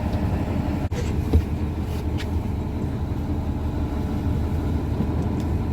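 Fishing boat's engine running steadily, a low rumble heard on deck, with a couple of faint ticks.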